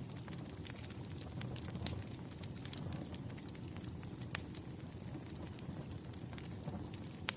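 Firewood burning with a steady low rumble and scattered sharp crackles and pops, one louder pop a little past halfway.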